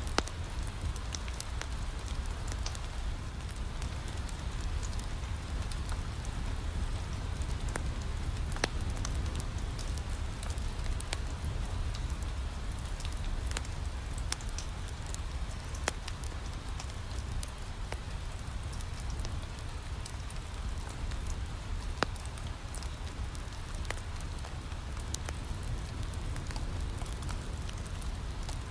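Steady rain against a window with a low rumble, mixed with a wood fire crackling: sharp pops and snaps scattered irregularly, the loudest about 9 and 22 seconds in.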